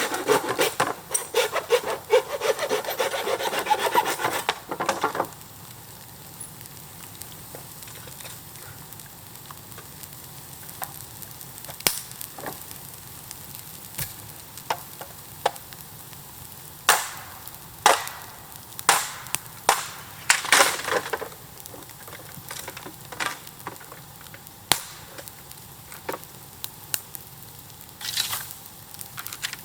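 A hand saw cuts through bamboo in quick rasping strokes for about five seconds, then stops abruptly. Scattered sharp cracks and knocks follow.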